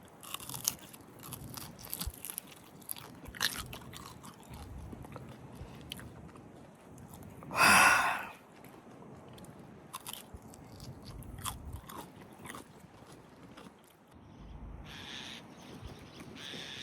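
A person chewing and biting grilled fish close to the microphone, with scattered crunchy clicks. One loud, short rushing burst comes about eight seconds in.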